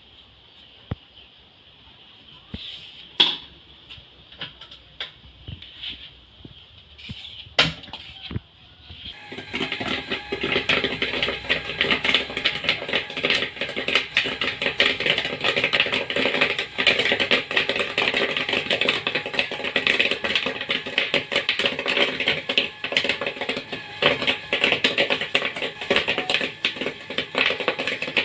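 Popcorn popping in a popcorn machine: a few scattered pops at first, then, about a third of the way in, a dense rapid crackle of pops that keeps going.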